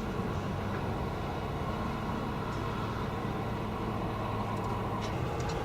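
Steady low hum of a motor vehicle's engine running close by, unchanging throughout.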